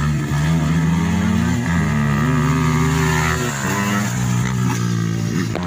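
Dirt-bike racing motorcycle engines revving hard, their pitch rising and falling as the riders open and close the throttle.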